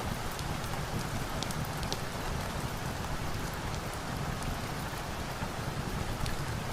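Steady rain falling, an even hiss with scattered small sharp ticks.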